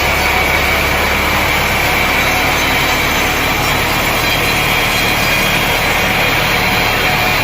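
Sawmill saw running steadily through a log, a continuous loud cutting noise with a faint steady whine.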